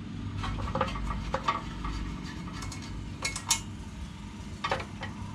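Socket wrench working on a bolt of the engine's air filter housing: scattered sharp metal clicks and clinks over a steady low hum.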